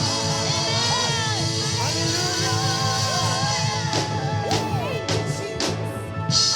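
Live gospel worship band playing steady chords while a voice sings runs that bend up and down over them. Several sharp percussion hits land in the second half.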